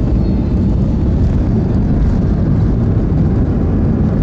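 Airbus A320-214 with CFM56 engines: a steady low rumble of engine and airframe noise.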